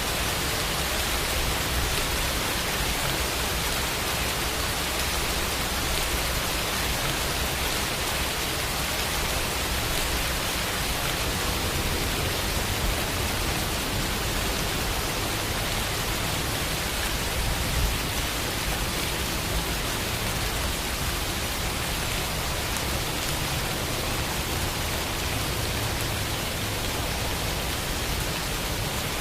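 Steady rain falling, an even hiss with no other sounds.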